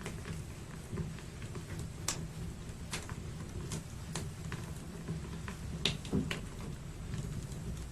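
Wood fire in an open fireplace crackling, with irregular sharp pops over a steady low rumble. The loudest pops come in a quick cluster about six seconds in.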